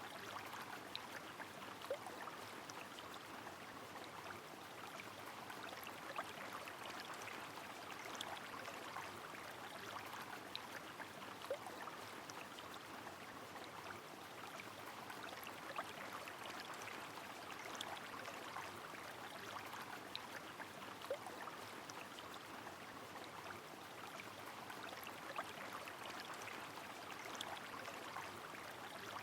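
Rain falling over a flowing river: a steady, soft rush of water with scattered light drop ticks and an occasional small plink.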